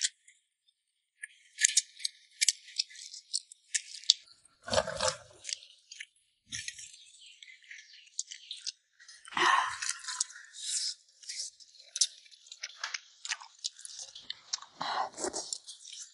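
A person eating: irregular chewing and crunching, many small sharp clicks, with a few fuller, lower sounds about five, nine and fifteen seconds in.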